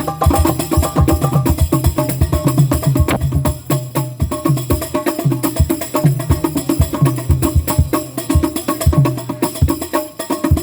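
Percussion group playing a fast, steady rhythm of deep drum beats with tambourine-like jingles and sharp wooden-sounding strokes.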